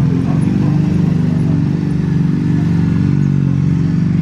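A motor vehicle engine running close by, a steady low drone whose pitch wavers slightly.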